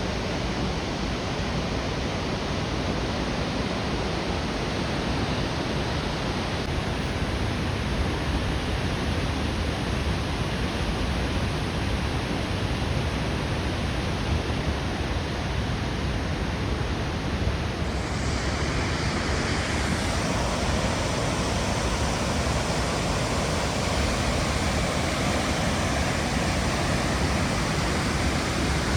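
Steady rushing of flowing water, an even noise with no breaks. It grows brighter and fuller about two-thirds of the way through.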